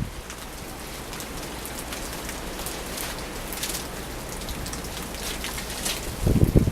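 Wind-driven rain mixed with snow hitting surfaces in a steady hiss of many small ticks during a blizzard. About six seconds in, a short gust rumbles on the microphone.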